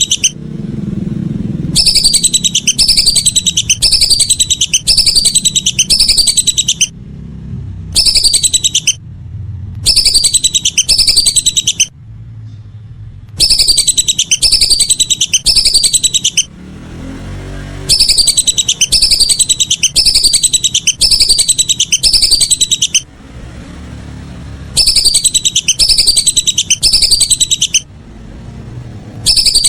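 Whistling duck (belibis) calls: loud bursts of rapid, repeated high whistles, each note falling in pitch, lasting a few seconds at a time with short pauses between, repeated as a looped lure recording.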